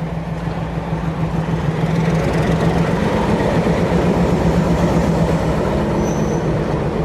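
The Cockle Train, a heritage train, running close by. Its sound swells about two seconds in and eases near the end, over a steady low hum.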